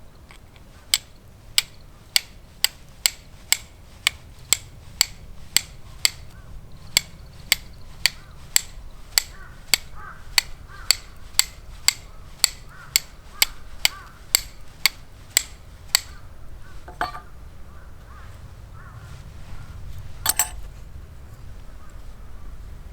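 A steady run of sharp knocks, about two a second, lasting about fifteen seconds, followed by two single knocks a few seconds apart.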